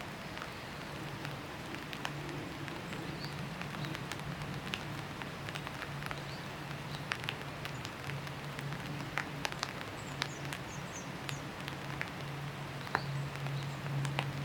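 Rain falling, with single drops ticking sharply here and there, over a steady low hum.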